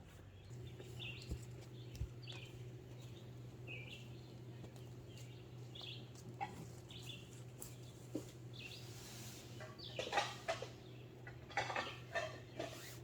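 A bird chirping over and over, short calls about once a second, over a steady low hum, with a few clicks and rustles near the end.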